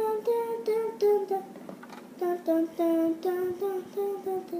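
A child humming a tune in short, separate notes, in two phrases with a pause of about a second between them.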